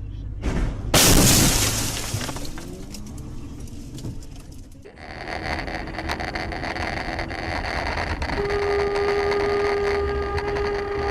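Car collision: a loud sudden crash with breaking glass about a second in. Later a steady, held tone sounds for a few seconds.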